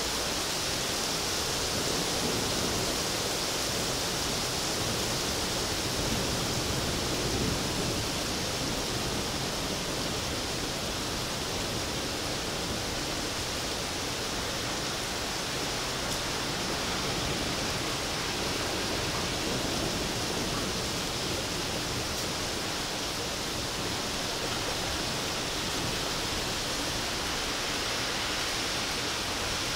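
Heavy rain pouring down steadily in a thunderstorm downpour, a dense even hiss.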